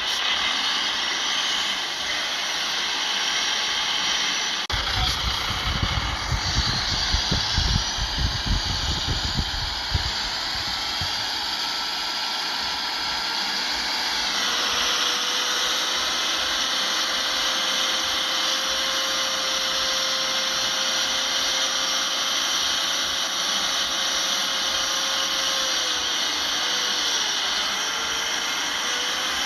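Heavy earthmoving machinery at work: a steady mechanical whine with hiss, holding high tones that slowly glide. A burst of deep, uneven rumble comes in about five seconds in and lasts a few seconds.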